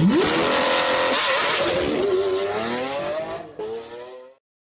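Sports car engine revving hard. The pitch shoots up at once and holds high, dips about a second and a half in, then climbs steadily again, until the sound cuts off abruptly near the end.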